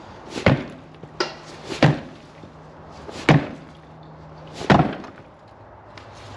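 About five sharp, irregularly spaced knocks of metal being struck on the chassis, working at a part that is stuck fast, with a faint low hum between the middle knocks.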